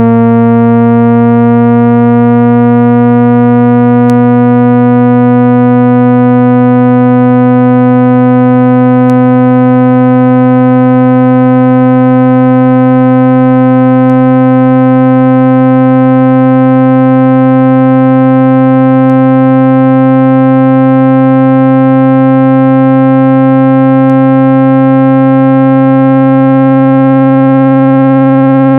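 Synthesized low-pitched buzzing tone with many overtones, its pitch creeping slowly and steadily upward. It is a speaker-cleaning tone, played to shake dust and water out of a phone's speaker grille.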